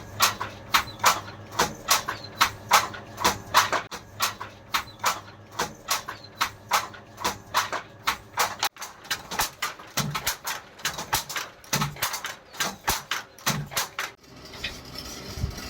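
Wooden handloom clacking in a steady rhythm, about three sharp knocks a second, with a few deeper thuds in the second half. The knocking stops shortly before the end.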